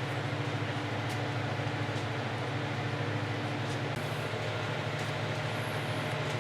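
A steady low mechanical hum with a faint higher tone that stops about four seconds in.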